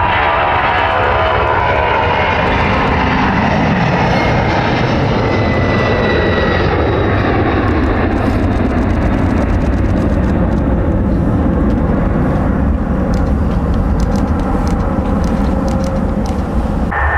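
Jet airliner passing close: a loud, steady engine roar, with a fan whine that slides down in pitch in the first few seconds, after which the sound grows duller with some crackle as it moves away.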